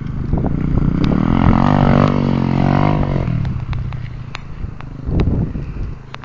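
A 125 cc dirt bike engine revving: the pitch climbs, holds, then drops away about three seconds in. After that it runs quieter, with a short rise in revs about five seconds in and a few sharp clicks.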